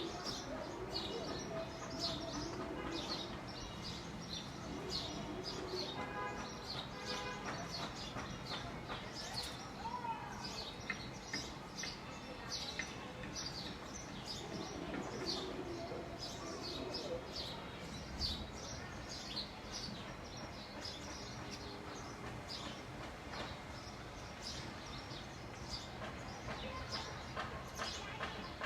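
Small birds chirping, a steady stream of short high chirps repeated many times a second.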